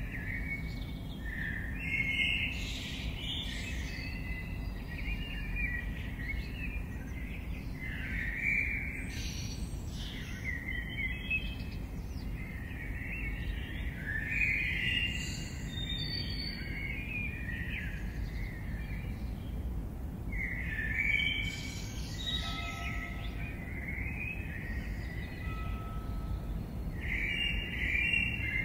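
Songbirds singing in a woodland, with bursts of chirping phrases every few seconds over a steady low rumble.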